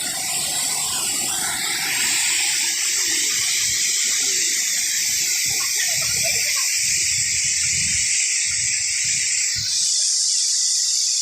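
Rushing water of a waterfall: a steady, loud hiss that grows louder about two seconds in.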